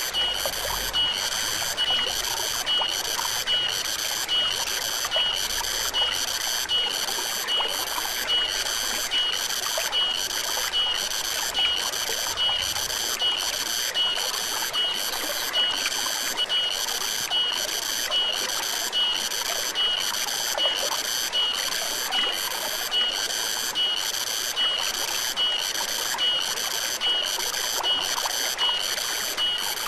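Forest stream running steadily, with a high-pitched chirping call from some animal repeating evenly, a little more than once a second.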